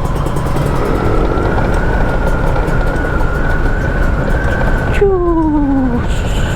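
Kawasaki Ninja 150 RR two-stroke single-cylinder engine running under way, with wind noise on the microphone. About five seconds in, the throttle closes and the engine note falls steadily in pitch.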